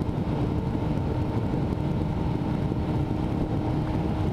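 Motorcycle engine running at a steady pitch while being ridden.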